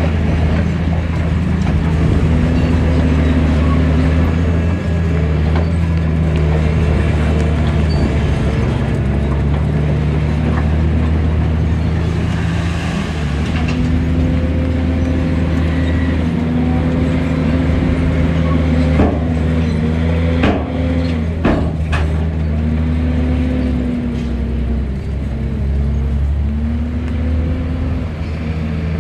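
Heavy diesel earthmoving machinery running, its engine pitch rising and falling as it works under load. A few sharp knocks come about two-thirds of the way through.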